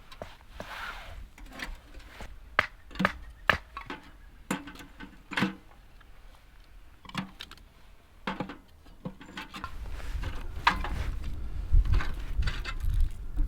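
Cooking utensils and wooden items being handled, giving irregular sharp knocks and clicks. A low rumble sets in about ten seconds in.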